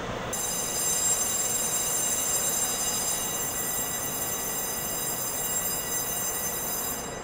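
Taiwan Railway EMU500 electric commuter train moving at the station. A steady high-pitched squeal over its running noise starts suddenly about a third of a second in and cuts off shortly before the end.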